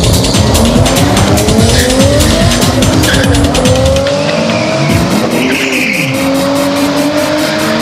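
Toyota Supras accelerating hard away from a drag-strip launch, their engine note rising again and again as they climb through the gears. A low rumble drops away sharply about four seconds in.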